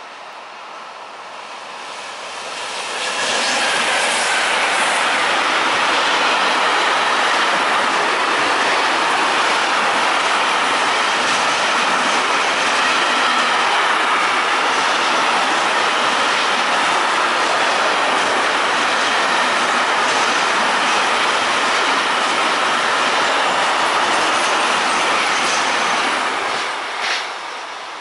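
Intermodal freight train hauled by an electric locomotive passing close by. The noise builds over the first few seconds as it approaches, then holds as a steady loud rolling of wagon wheels on the rails. It drops away near the end as the last wagons go by, with one short sharp clatter just before it fades.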